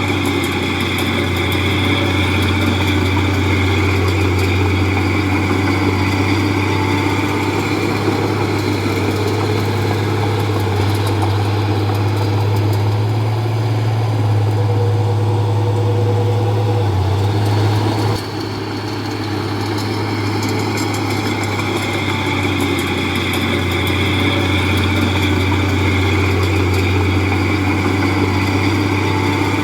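Diesel engine of a Komatsu D31P crawler bulldozer running steadily. Its level drops suddenly about two-thirds of the way through, then builds back up.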